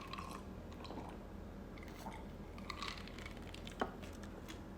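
A person chewing soft noodles and rice cakes with the mouth close to the microphone: faint wet smacks and small clicks, with one sharper click a little before the end.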